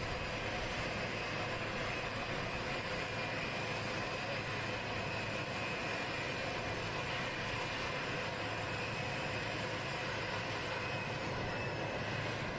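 Jet engines of Air Force One, a VC-25A (modified Boeing 747) with four turbofans, running steadily: an even rush of engine noise with a constant whine, no change in pitch.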